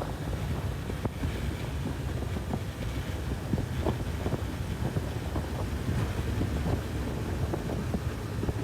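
Wind rumbling and buffeting over the microphone on a moving Honda CB1000R motorcycle, with its inline-four engine running steadily underneath.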